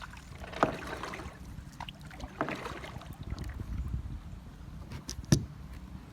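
Floodwater splashing in slow strokes, one about half a second in and another about two and a half seconds in, with a sharp knock about five seconds in.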